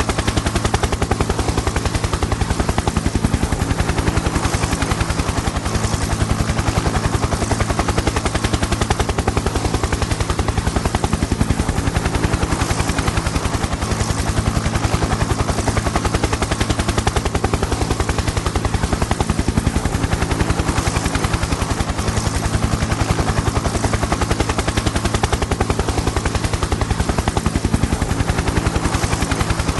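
Helicopter in flight: fast, evenly spaced rotor-blade chop over a steady low engine drone and hiss.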